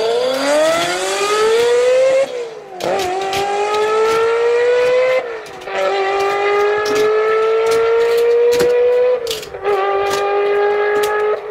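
A car engine sound effect accelerating through the gears: its pitch climbs, drops back at each shift about every two to four seconds, then climbs again or holds. Over it come scattered clinks of diecast toy cars being dropped into a plastic box.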